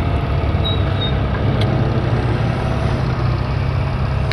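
Honda CB250 Nighthawk's parallel-twin engine running steadily while riding, under a steady rush of wind and road noise.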